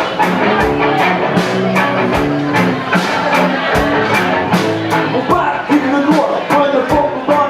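Rock band playing, with a drum kit keeping a steady beat under held, pitched instrument lines.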